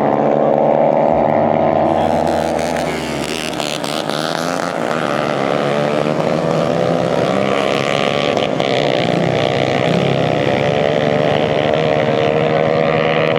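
Dirt bike engines running at high revs, dipping briefly about three seconds in and then picking up again.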